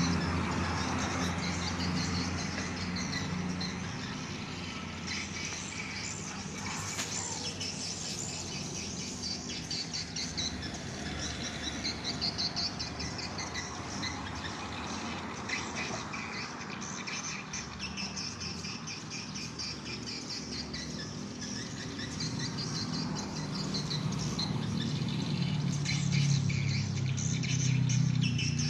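A flock of swiftlets twittering: many short, high chirps overlapping continuously, over a low hum that is stronger at the start and near the end.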